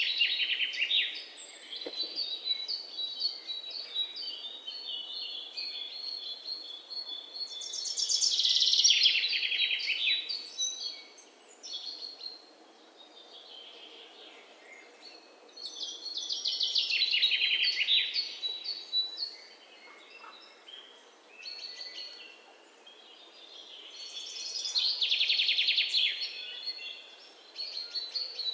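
Songbirds singing: one bird repeats a loud song phrase about every eight seconds, a rapid trill that falls in pitch, with quieter chirps from other birds in between.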